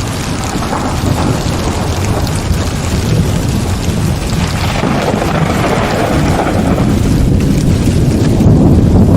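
Heavy rain falling steadily while thunder rumbles deep underneath, the rumble swelling and growing louder near the end.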